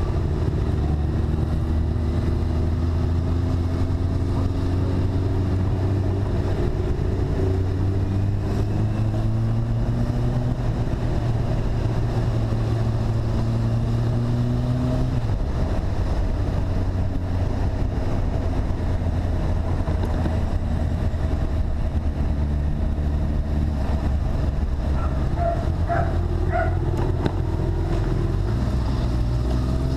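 Motorcycle engine running under way, its pitch easing and shifting with speed, dropping about halfway through and rising again near the end as it accelerates, with wind noise on the microphone.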